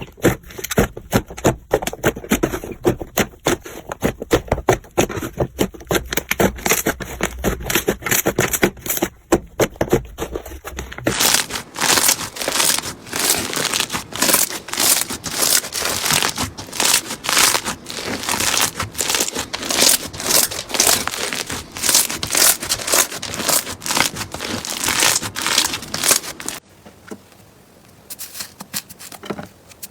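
Slime being squeezed and pressed by hand, making rapid crackling and popping clicks. About eleven seconds in the crackle turns brighter and crisper, and near the end it drops to a quieter handling sound.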